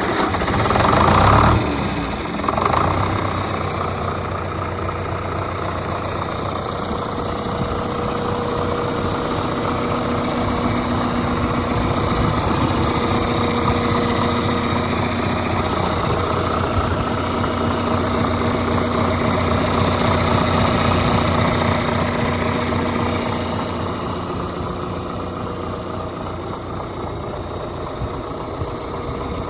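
John Deere 3020's four-cylinder diesel engine running steadily at idle, with a louder burst about a second in and another shortly after.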